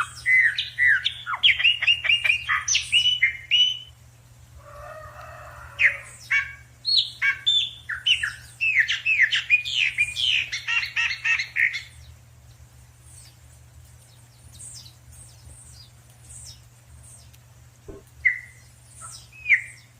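Small wild birds chirping in quick runs of short sliding notes, thinning out to scattered single chirps in the second half, with a harsher, lower call about five seconds in.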